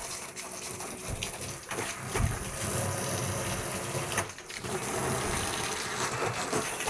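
Steady rushing noise of gushing water, with a low rumble under it for the first few seconds and a brief dip about four seconds in.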